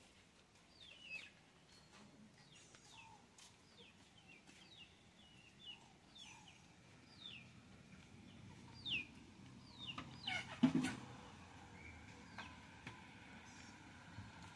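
Birds chirping: many short, high chirps that fall in pitch, repeated throughout, with a louder short sound about ten and a half seconds in.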